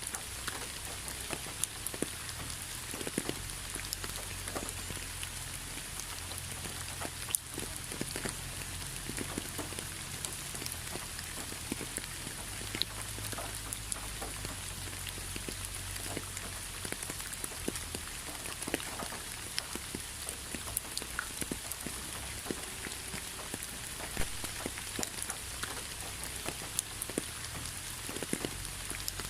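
Steady rain with individual raindrops tapping irregularly on a surface, each drop a short tick over a constant hiss.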